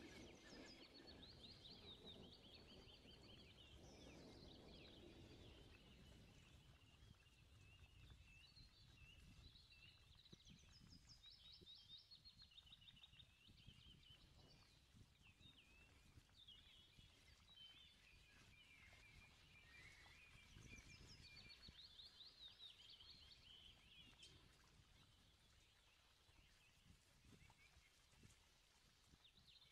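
Faint birds chirping, many quick repeated notes and short trills, over an otherwise near-silent background.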